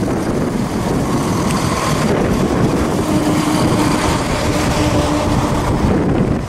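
CrossCountry Class 170 Turbostar diesel multiple unit running past at close range: steady loud diesel engine and wheel-on-rail noise.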